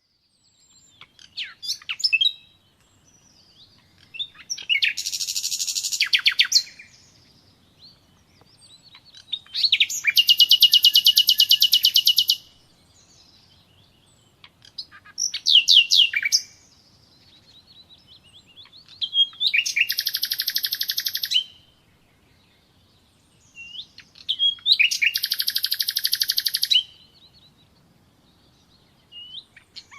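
A songbird singing: about six loud phrases of rapid, high trilled notes, each one to three seconds long and a few seconds apart, with soft chirps in between.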